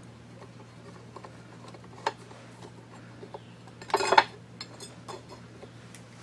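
Small metal parts of a drill grinder motor clinking as it is taken apart by hand: scattered light clicks, a sharp click about two seconds in, and a short burst of metal clatter about four seconds in, over a steady low hum.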